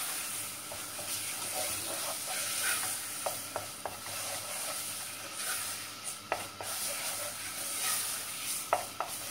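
Tomato purée and tomato paste sizzling as they fry in a flour roux in an enamel pot, stirred and scraped with a wooden spoon, with scattered light knocks of the spoon against the pot.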